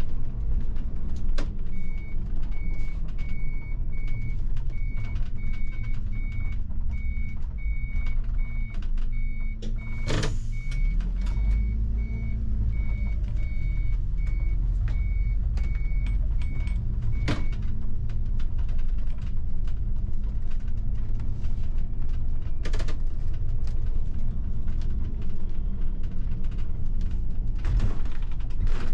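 A bus engine running and driving, heard from the driver's cab, its pitch rising and falling once midway. A high electronic beep repeats about twice a second for roughly the first half, and a few sharp knocks and rattles come through.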